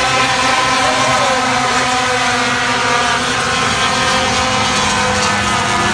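Several race trucks' engines running at speed around the track, a steady, loud blend of engine notes.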